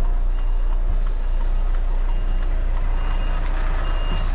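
Articulated lorry's reversing alarm beeping about once a second while the truck backs up, over the steady low running of its diesel engine.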